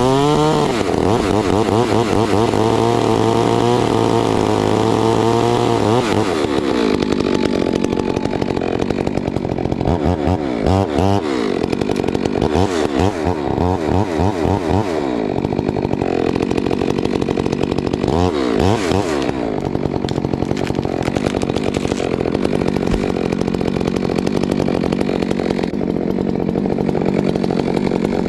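Stihl MS462 two-stroke chainsaw running at high revs while cutting wood. The engine pitch swings up and down repeatedly in the first few seconds and again in short bursts later, with steadier stretches in between.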